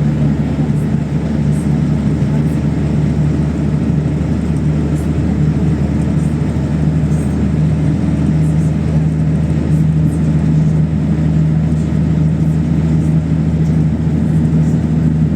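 PAZ-32054 bus running along at a steady pace, heard from inside the passenger cabin: a steady low engine drone with road noise and a few faint ticks.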